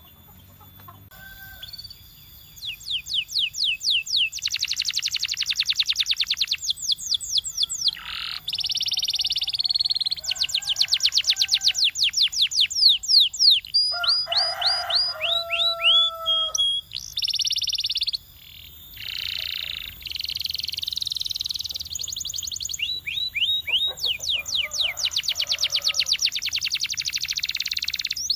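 Male canary singing: after a short quiet start, a long song of rapid trills and rolls, each phrase a fast string of repeated notes, broken by brief pauses between phrases.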